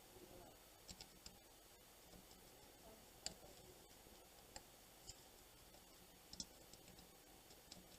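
Near silence with about half a dozen faint, scattered clicks from small handling taps at the workbench, spread irregularly with no steady rhythm.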